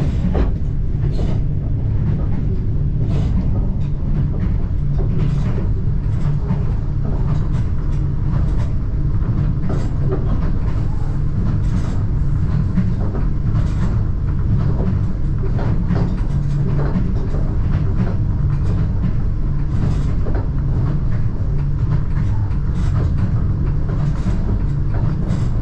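Inside a moving Standard Gauge Railway passenger carriage: the steady low rumble of the train running, with faint clicks every second or two from the wheels on the track.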